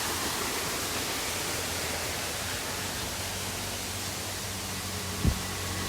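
Waterfall rushing: a steady, even roar of falling water. A brief low thump comes about five seconds in.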